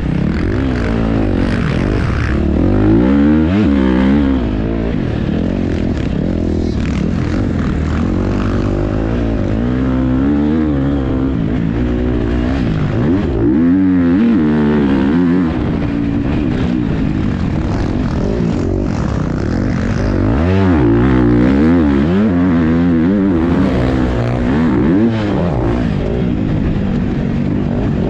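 Motocross bike engine heard from onboard, its pitch rising and falling again and again as the rider accelerates, shifts and backs off around the track.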